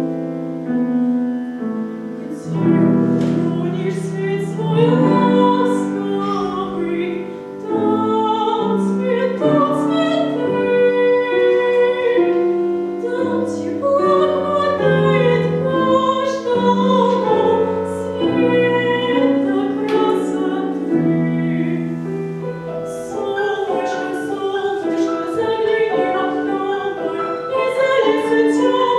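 A female vocalist singing a song in a classical, operatic style, with piano accompaniment.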